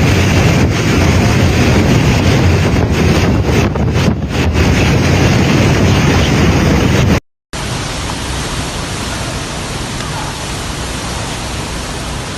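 Strong wind buffeting the microphone in a loud, heavy rush for about seven seconds, then cut off suddenly. After a split-second gap, a different, steady rushing noise follows.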